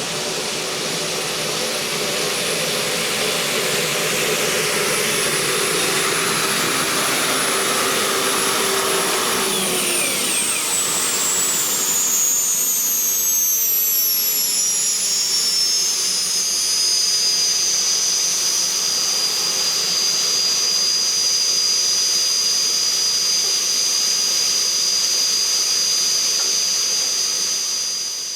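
A modified pulling tractor's engines run at full power pulling the sled, a loud continuous roar with a high whine. About ten seconds in, the whine slides down in pitch and then holds steady.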